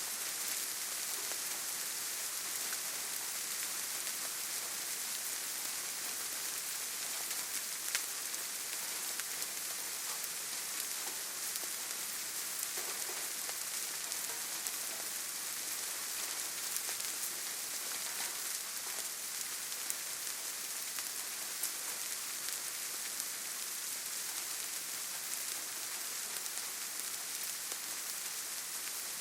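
Steady gentle rain falling on leaves and forest ground: a continuous hiss with many small scattered drop ticks, and one sharper drip about eight seconds in.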